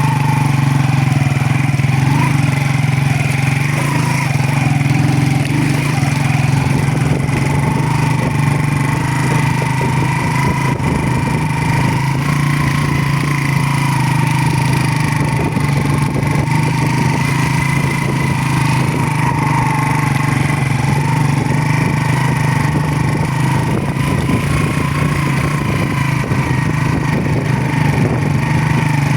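Motorcycle engine running steadily under way, its pitch wavering slightly.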